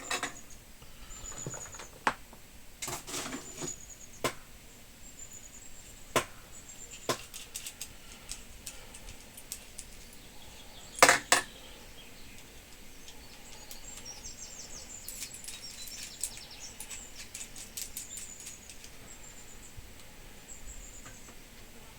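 Scattered clicks, taps and light clatter of small tools and parts being handled on a workbench, with a louder double knock about 11 seconds in and a run of rapid fine ticking a few seconds later. Faint short high squeaks come and go.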